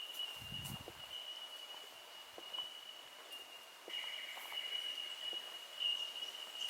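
A chorus of bell miners (bellbirds) sounding their high, ringing 'tink' calls, which overlap into one continuous bell-like tone. A few faint ticks sound alongside it.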